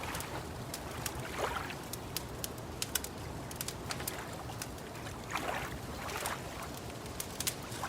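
Crackling wood fire giving many sharp irregular pops and snaps, over gentle water lapping that swells softly a few times.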